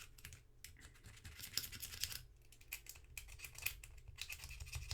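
Quick, irregular scratchy scrubbing strokes as the inside of a Willys MB jeep's headlight switch housing is cleaned by hand.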